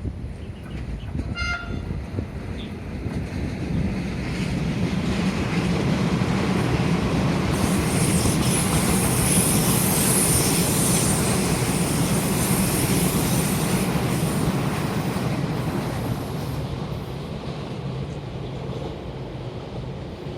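Taiwan Railways Puyuma tilting electric express train passing by: the rumble of wheels on rail builds, is loudest with a hiss from about 8 to 14 seconds in, then fades as it goes away. A brief high tone sounds about a second and a half in.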